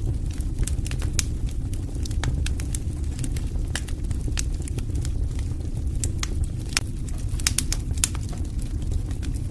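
Wood fire burning, with irregular sharp crackles and pops, a few a second, over a steady low rumble.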